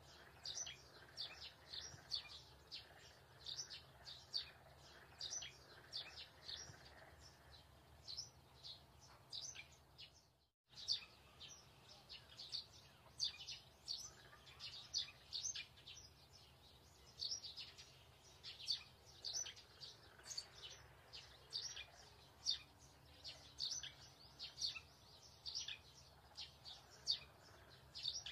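Small birds chirping in quick, short, high-pitched notes several times a second, faint over a low steady hum, with a brief total dropout about ten seconds in.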